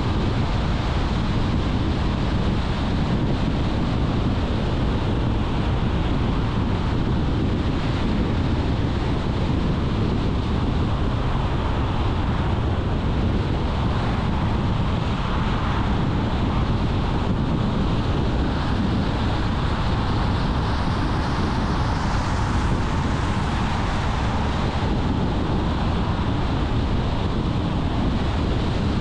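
Steady road noise from a car in motion: tyre rumble and wind noise, with a hiss that swells briefly twice.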